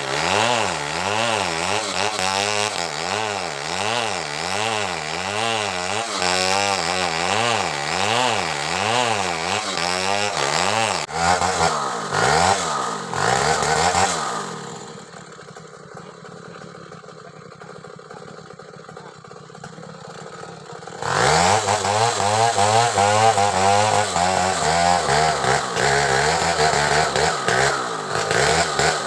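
Stihl two-stroke chainsaw cutting a coconut-palm trunk, its engine pitch swinging up and down about once a second as the bar works through the wood under load. About halfway through it drops to a low idle for several seconds, then revs back up and cuts again, falling off just before the end.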